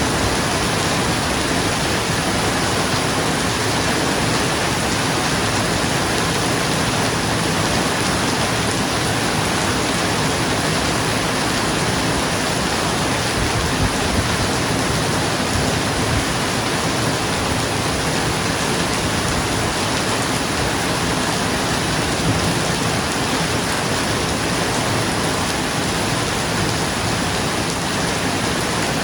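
Steady heavy rain drumming on a roof, a dense even hiss of drops.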